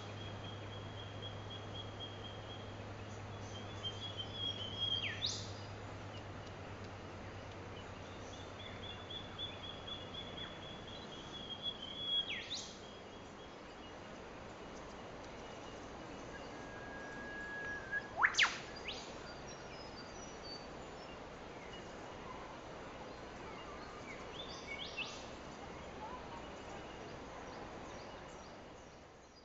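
Wild birds calling over a steady outdoor hiss: about four times, a held high whistling note ends in a sharp, whip-like sweep. The sound fades out near the end.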